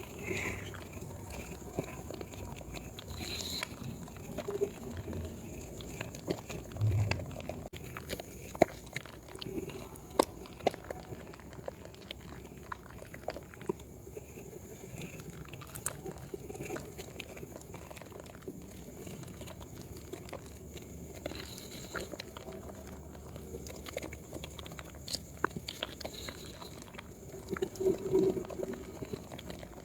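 Hands working a wet, soaked bar of Proguard yellow soap: soft wet squishing and lathering with many small clicks and crackles, and a louder squelch about seven seconds in and again near the end.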